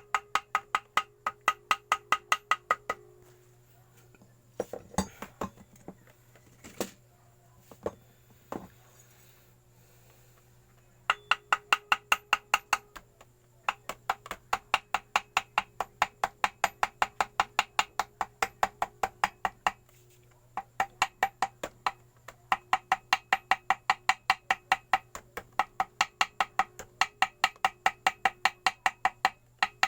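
Light hammer taps in fast, even runs of about four a second, broken by a long pause with a few separate knocks and by a shorter break later on. This is a hammer tapping gasket paper against an engine's mating surface to cut out a homemade gasket.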